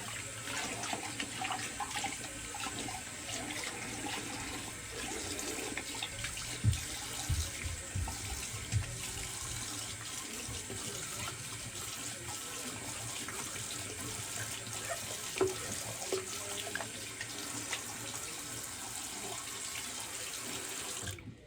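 Cold water running steadily from a sink tap while the face is rinsed, with a few louder splashes. The tap shuts off just before the end.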